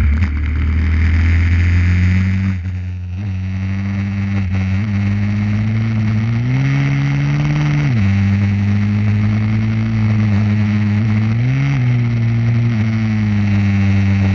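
Pit bike engine running at a steady speed, revved up twice: about six and a half seconds in, held for a second and a half before dropping back suddenly, and briefly again near the twelve-second mark.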